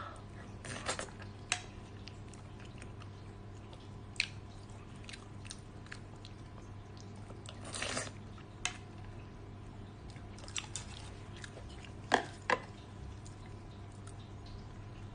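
Close-up eating sounds of someone chewing pig brain: scattered wet mouth smacks and clicks over a steady low hum, with a few louder smacks, two of them close together just after twelve seconds.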